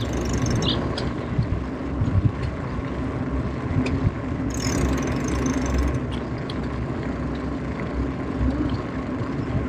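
Wind rushing over the microphone of a moving bicycle, a steady low rumble with a few faint ticks.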